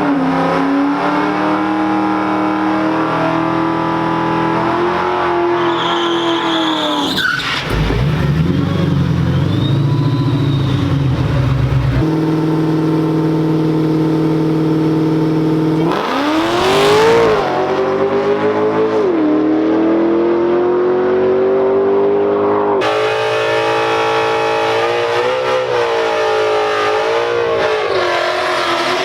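Car engines at a drag strip running and revving, their pitch rising and falling, across several abrupt cuts. About sixteen seconds in, a loud rising rev as a car accelerates hard.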